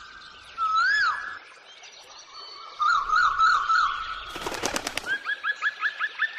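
A songbird singing: two rising-and-falling whistles, then a quick trill and a fast series of short rising notes. A brief burst of rattling clicks comes in about two thirds of the way through.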